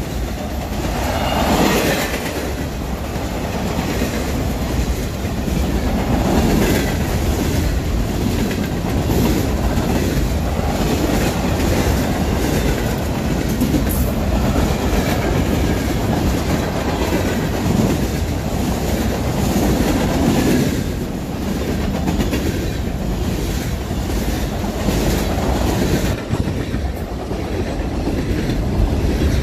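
Freight train cars rolling past at close range: a steady rumble of steel wheels on rail, with a repeated clickety-clack as the wheels cross rail joints.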